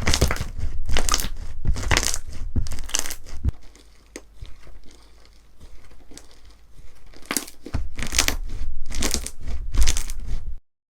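Slime being squeezed and pressed by hand, a series of crackly squishes about once a second, softer in the middle stretch and cutting off suddenly near the end.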